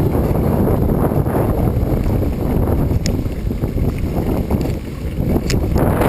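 Wind buffeting the microphone as a steady, loud low rumble, with a couple of short clicks, one about three seconds in and another near the end.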